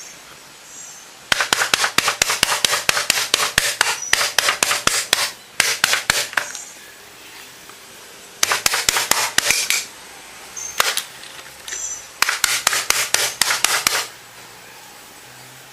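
Bursts of rapid, sharp tapping on a hard surface, about seven taps a second, in four runs with short pauses between them.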